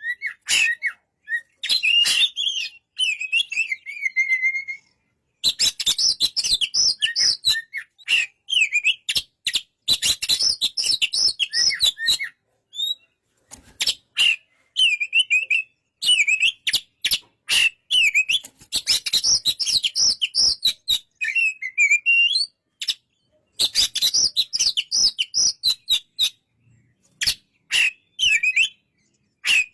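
Oriental magpie-robin (kacer) singing: a run of short bursts of varied whistled and sharp clicking notes, with brief pauses between phrases.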